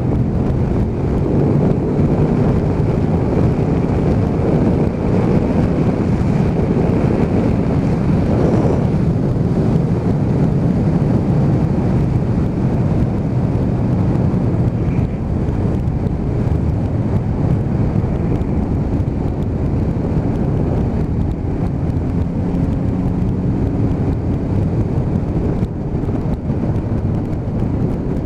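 Motorcycle engine under hard acceleration, its note rising over the first few seconds, then running at speed under heavy wind rush on the helmet microphone.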